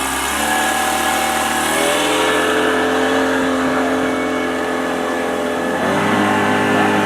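Tour boat's engine running under way and speeding up, its pitch rising in two steps in the first two seconds and then holding steady, with a change in pitch near the end.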